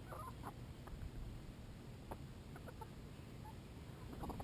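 A flock of backyard chickens clucking softly now and then while they feed, with scattered short calls and pecks.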